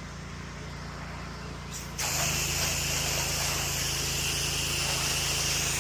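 Pressure washer's motor humming steadily, then about two seconds in the spray wand opens and a jet of water starts with a sudden, loud, steady hiss.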